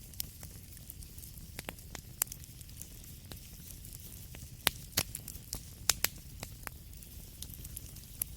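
Wood fire crackling in a fireplace: irregular sharp pops and snaps over a low steady rumble, with a cluster of louder pops a little past halfway.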